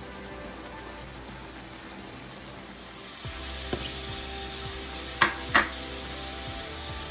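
Boneless chicken pieces, onion and tomato sizzling as they fry on a hot tawa. The sizzle is steady and gets louder about three seconds in. Two sharp knocks come close together about five seconds in.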